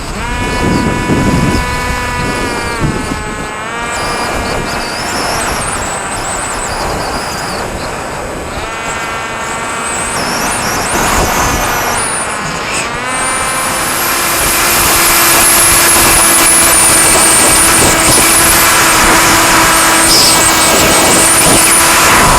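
Radio-control BD-5 model airplane's motor and propeller running, the note dropping and climbing several times with the throttle. In the last third it runs steady and louder, under a loud rushing noise.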